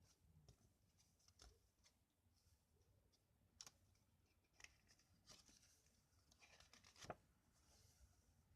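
Faint handling noises: light rustles and small clicks, with a sharper click about seven seconds in.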